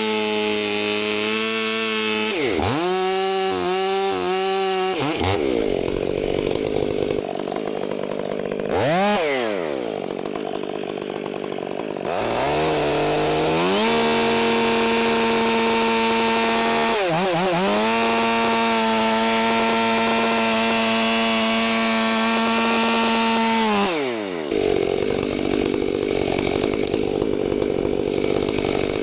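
Two-stroke chainsaw blipping its throttle, revving up and down several times. About twelve seconds in it is held at full throttle for roughly ten seconds, cutting through wood, then drops off.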